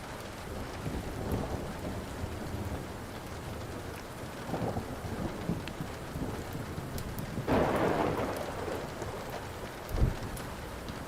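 Steady rain with rolling thunder, swelling louder about two-thirds of the way in, then a sharp low thunder thump near the end. Faint crackles of a burning wood fire sound under the rain.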